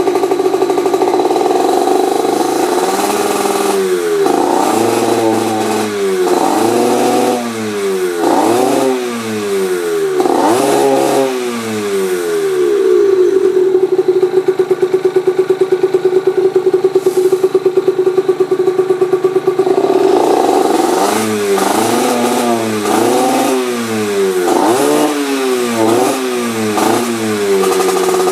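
1994 Yamaha TZR50R's 50cc two-stroke single-cylinder engine, fitted with an aftermarket expansion-chamber exhaust, revved in a series of quick blips that rise and fall. About midway it is held at steady high revs for around six seconds, then blipped repeatedly again.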